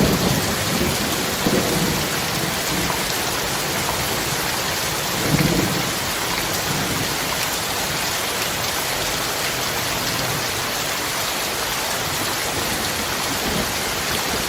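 Steady heavy rain of a rainstorm, with low thunder rumbles near the start and again about five seconds in.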